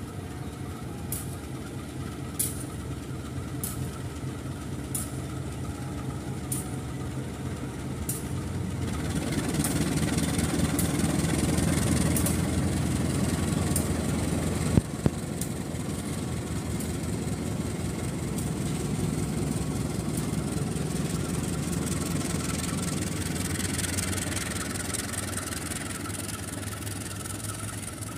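Train passing a level crossing: a steady low engine rumble that swells about a third of the way in. Light regular clicks come about every second and a half until roughly the halfway point, and there is a single sharp knock near the middle.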